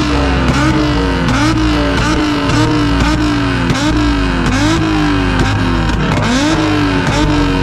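Nissan 350Z's V6 being revved hard over and over in quick blips, about one and a half a second. Each time the note snaps up and then falls back, held high in the rev range.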